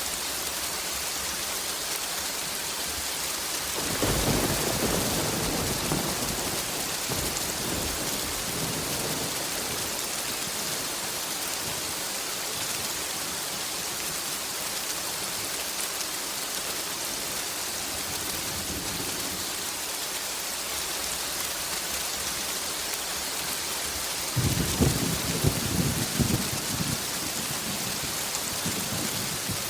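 Steady heavy rain hissing, with thunder twice: a rumble rolls in about four seconds in and dies away over a few seconds, and a louder, crackling peal comes near the end.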